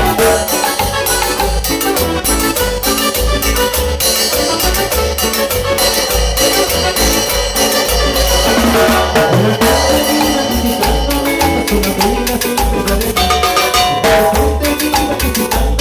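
Cumbia band playing live, with a steady bass beat and percussion under the melody.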